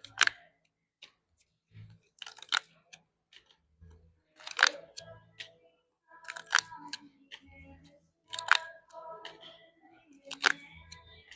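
Paper pull-tab bingo tickets being torn open one after another, a short sharp rip of a tab being pulled back about every two seconds.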